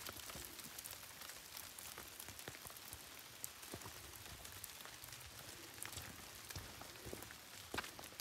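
Faint light rain pattering: a steady hiss dotted with many small, irregular drop ticks, with a few sharper ticks near the end.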